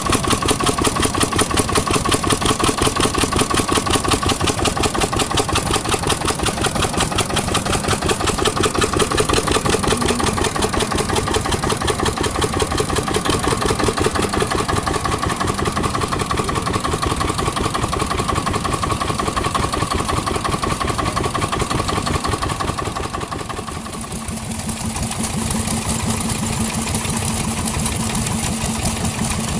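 Vintage engines running with a fast, even firing beat. About three-quarters of the way through, the sound dips and changes to a different engine, with a steady hum under its beat.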